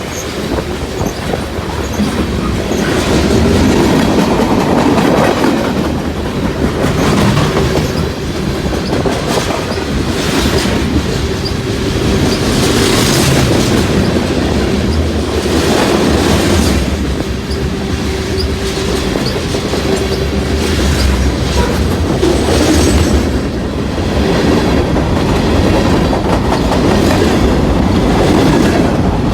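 Freight train of hopper cars rolling past, wheels clacking steadily over the rail joints, with a steady wheel squeal on and off.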